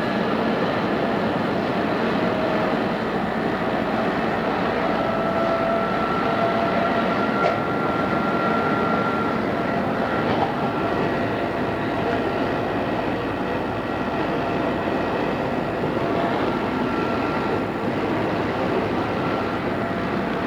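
Odakyu 2600 series electric train running at speed: a steady rumble of wheels on rail with a faint whine holding a nearly steady pitch, and two brief clicks in the middle, recorded on cassette tape.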